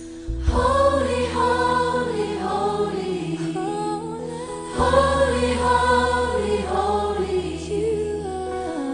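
Gospel-style choral singing over instrumental backing with a sustained low bass; new sung phrases start about half a second in and again near five seconds.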